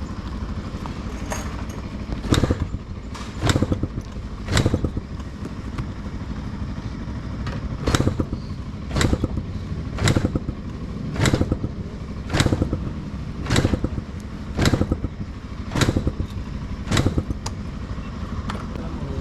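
Motorcycle being kick-started again and again without catching, each kick a short clatter about once a second, with a pause of a few seconds after the first three. Another motorcycle engine idles steadily underneath.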